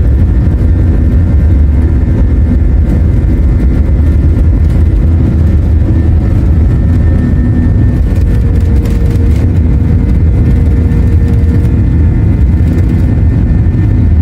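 Airbus A321 cabin noise in flight: a loud, steady low roar from the jet engines and airflow, with a few faint steady tones above it.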